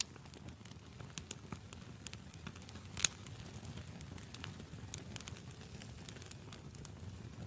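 Wood campfire crackling: scattered sharp pops and snaps over a low, steady rumble of burning, with one loud pop about three seconds in.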